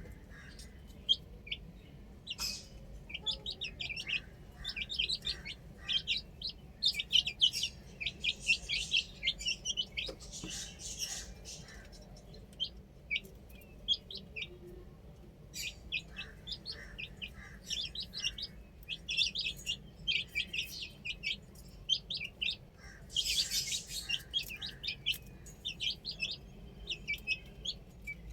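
Baby chicks peeping: a dense flurry of short, high chirps from several birds at once, coming in bursts with brief lulls.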